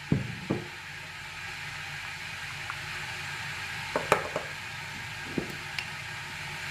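Scattered light taps and clicks from handling a plastic hand espresso maker and its spoon while ground coffee is put in, with a small cluster about four seconds in, over a steady background hiss.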